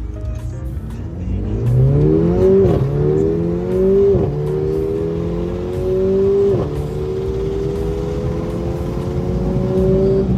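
Car engine accelerating hard through the gears. The engine pitch climbs, drops suddenly at three upshifts about a second and a half to two and a half seconds apart, then climbs more slowly in the higher gear.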